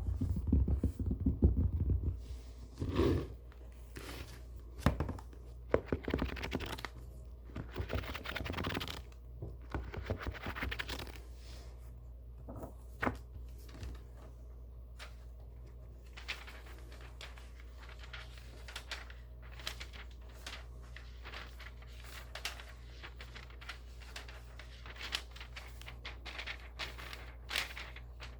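Books being handled: paper pages rustled and turned, with a few heavier knocks and scrapes of the books in the first seconds. After about eleven seconds it settles into quieter, sparser rustling and occasional small ticks.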